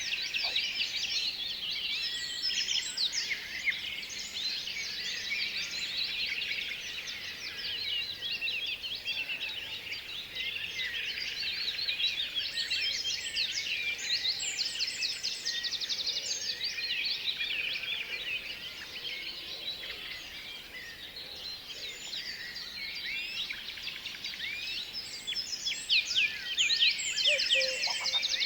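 Many small birds chirping and twittering at once in a dense, continuous chorus of quick overlapping calls. It grows louder near the end.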